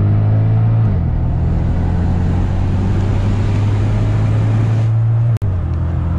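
Mercedes CL 63 AMG V8 droning loud and steady at a constant engine speed while cruising, heard from inside the cabin with road and wind noise. The sound cuts out for an instant about five seconds in.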